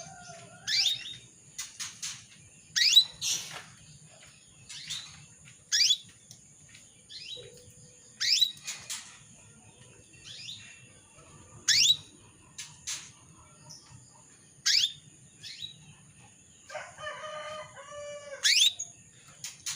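Female canary giving short, sharp, upward-sweeping chirps, one every second or two: the calling of a hen in breeding condition, used to get male canaries singing. Near the end comes one longer, lower call.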